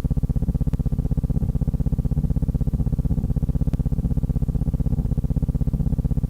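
A steady low hum that pulses at a rapid, even rate, with a few faint ticks about three seconds apart.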